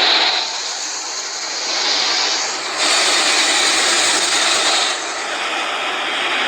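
Jet airliner engine noise at an airport, a loud steady rushing sound with a high hiss, which changes abruptly in level and tone about half a second in, near three seconds and again near five seconds.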